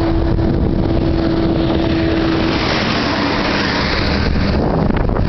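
Steady road and engine noise of a vehicle with wind rushing, with a steady hum that fades out about halfway through.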